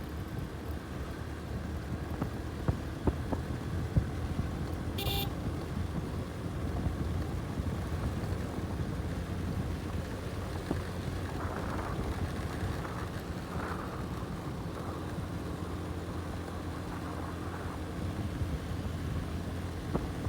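Motorcycle engine running steadily while riding, with wind rumbling on the microphone and a few sharp knocks about two to four seconds in.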